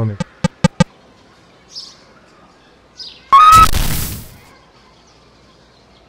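Short, falling bird chirps repeat every second or so. About three seconds in, a loud rushing whoosh with a brief high tone at its start fades out over about a second. A few sharp clicks come in the first second.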